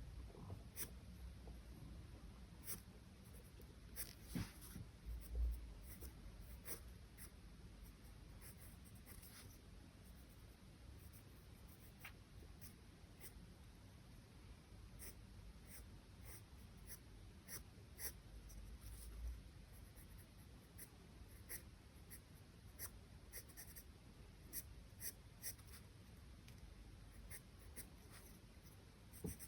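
Charcoal drawing on paper: faint, irregular short scratchy strokes, some slightly louder than others.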